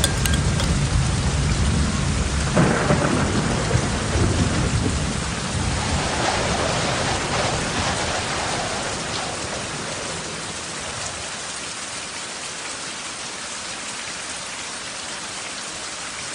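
Steady heavy rain with thunder: a deep rumble and a sharp crack about two and a half seconds in. The rumble dies away by around ten seconds, leaving only the rain.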